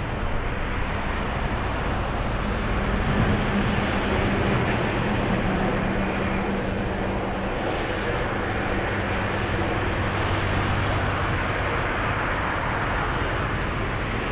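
Jet airliner engines at takeoff thrust: a loud, steady rushing noise with a low hum underneath, swelling slightly about three seconds in.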